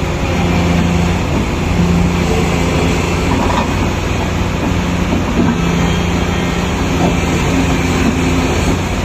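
Heavy diesel engines of large mining machinery running, a steady low drone whose higher note comes and goes.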